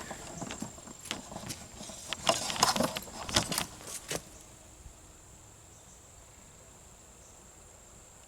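A quick run of clinks and rattles for about four seconds, then they stop, over a steady high-pitched insect drone that runs throughout.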